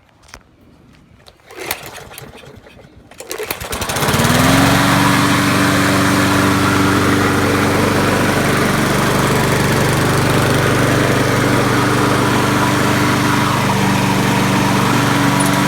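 Kohler 149cc engine on a Poulan self-propelled lawn mower being recoil-started: a few clicks and a pull, then it catches about four seconds in and runs steadily. The engine is starting and staying running after a carburettor cleaning.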